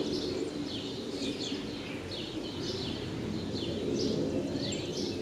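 Small birds chirping over and over in quick short calls, over a steady low hum.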